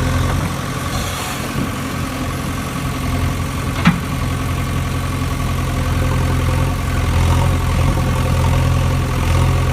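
A motor running with a steady low hum, and a single sharp click about four seconds in.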